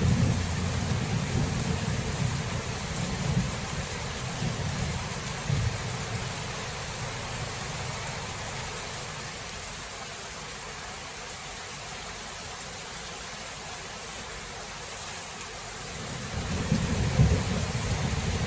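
Thunderstorm: steady rain hiss with rolling thunder. A low rumble fades away over the first several seconds, leaving the rain alone, and thunder rumbles in again near the end.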